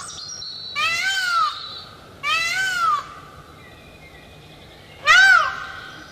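Indian peafowl (peacock) calling: three loud calls, each rising and then falling in pitch over about half a second. The calls come about a second in, about two and a half seconds in and about five seconds in, and the last one is the loudest.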